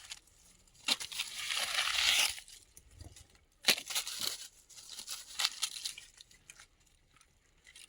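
Dry rustling and crinkling: a longer rustle about a second in, then a few short, sharp crackles.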